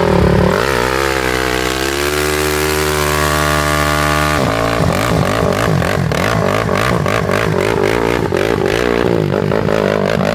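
Mini motorcycle engine revving: its pitch climbs over about a second and a half and holds steady. About four and a half seconds in it changes abruptly to a choppy, rapidly pulsing run.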